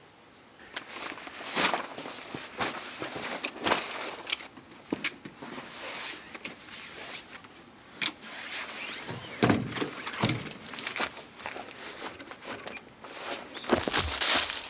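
Irregular rustling, clinks and knocks of gear being handled, starting about a second in and continuing with louder knocks near the end.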